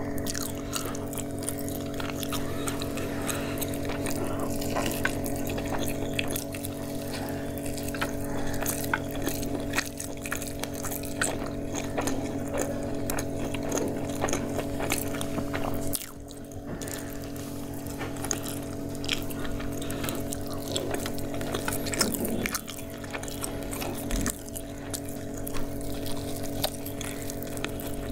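Close-miked chewing and crunching of crispy fried chicken, with many small crackles and mouth clicks, over a steady low hum.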